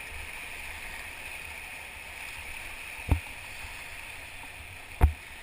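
Whitewater river rushing steadily around a paddled raft, with two sharp knocks, about three seconds in and again near the end, the second louder.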